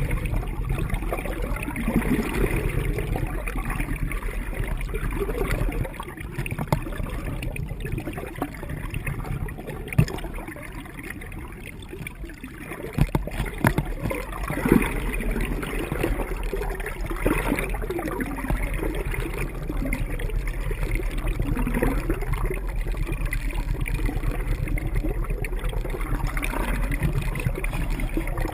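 Water rushing and gurgling along the hull of a sailboat under way, with a few sharp knocks about ten seconds in and again a few seconds later.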